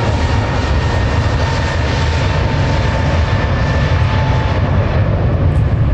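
Jet airliner's engines running loud as it moves along the runway: a heavy steady rumble with a thin whine that fades out about four seconds in.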